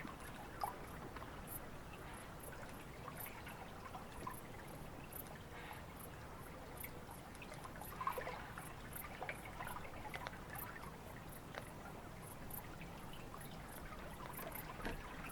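Faint trickling and pouring water, with a few small knocks and splashes about eight seconds in.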